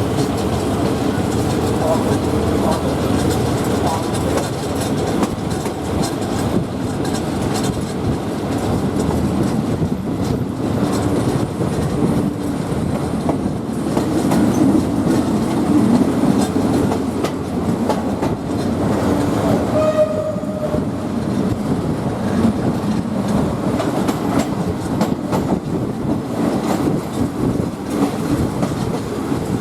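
State Railway of Thailand passenger train running along the track, heard from aboard: a steady rumble with the clickety-clack of wheels over rail joints. A brief tone sounds about two-thirds of the way through.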